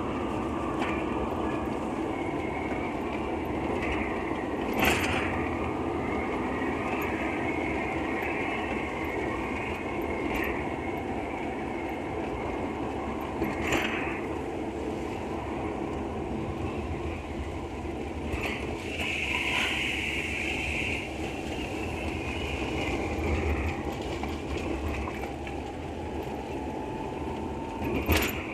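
Steady road noise of a vehicle driving on a wet road, heard from inside the cabin, with a few short sharp knocks.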